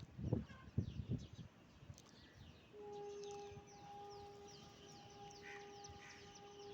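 Birds chirping busily at a pigeon-feeding spot, with many quick, high, falling chirps over a few low thumps in the first second. From about three seconds in, a steady droning tone is held under the chirps.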